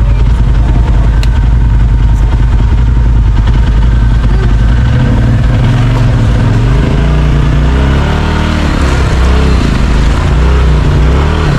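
Side-by-side UTV engine running loud under load on the trail, its revs rising and falling over the second half.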